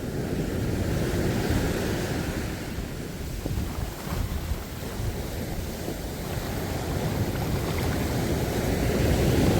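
Sea surf washing in, with wind on the microphone; the noise swells and eases slowly.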